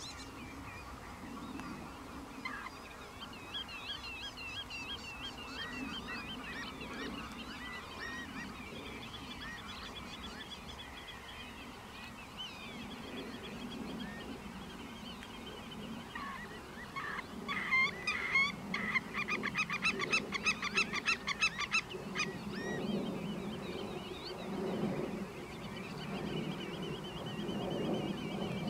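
Birds calling steadily in the background, many short wavering chirps, with a fast run of rapidly repeated calls from a little past the middle, over a low rumble.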